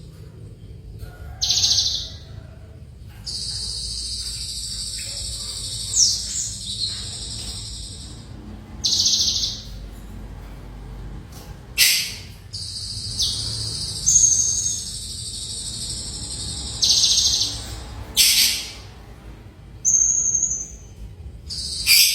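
Java sparrow singing actively: long high-pitched runs of rapid notes lasting several seconds, broken by short sharp calls that come every couple of seconds.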